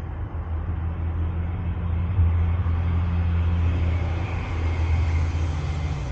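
A motor vehicle passing: a low engine rumble and tyre hiss that swell to a peak in the middle and ease off near the end.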